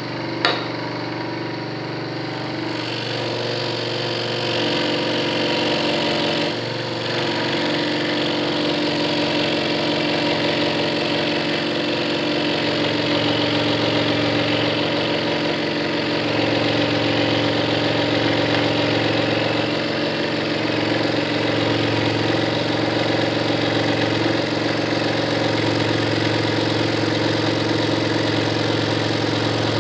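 Scroll saw running steadily with a continuous motor hum, a sharp click about half a second in.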